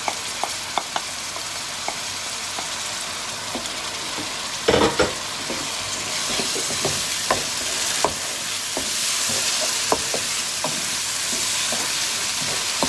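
Diced tomatoes sizzling in hot oil with fried onions in a non-stick wok, stirred with a wooden spoon that ticks and scrapes against the pan. There is a cluster of louder spoon knocks about five seconds in, and the sizzle grows louder in the second half.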